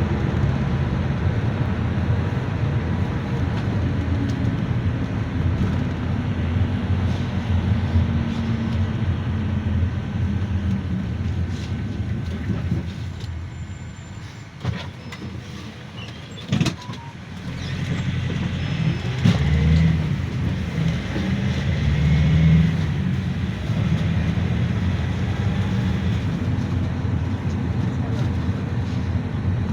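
Cabin noise of a GAZelle Next minibus on the move: a steady engine and road rumble. It goes quieter for a few seconds midway, with a single sharp knock, then builds up again.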